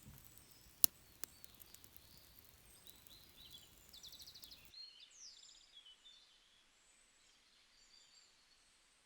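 Faint outdoor ambience with small birds chirping and trilling faintly, mostly in the second half. A single sharp click comes about a second in, followed by a softer one and a few faint ticks.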